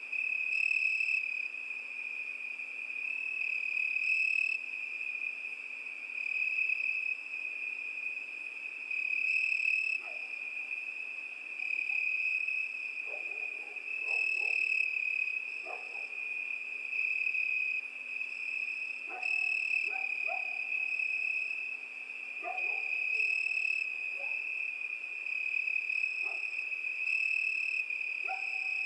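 Crickets chirping steadily in one high, continuous trill that swells and fades every second or two. From about a third of the way in, another animal gives short, lower calls a dozen or so times.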